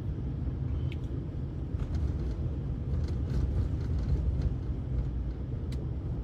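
Car driving on snow-covered roads heard from inside the cabin: a steady low rumble of engine and tyres, with a few faint clicks.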